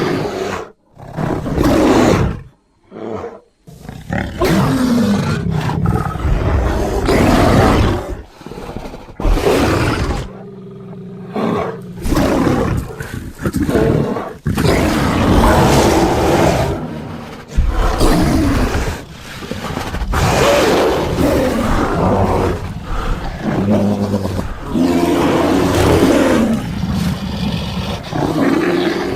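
Designed creature vocalisations for a sabre-toothed bear, layered from bear, big-cat and monster roars: a series of loud roars and growls of a second or two each, with short breaks between them.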